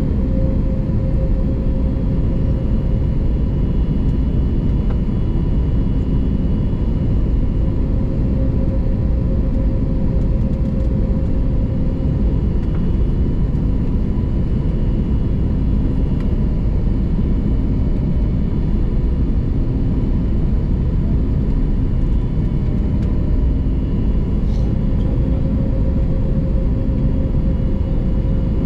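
Steady cabin noise of an Airbus A321neo airliner in flight on approach: a constant low rumble of engines and airflow with a faint steady hum over it.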